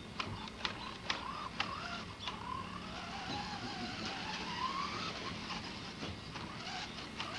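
Electric motor of a radio-controlled toy car whining, its pitch rising and falling as it speeds up and slows while pulling a loaded baby walker, with a few sharp clicks in the first two seconds.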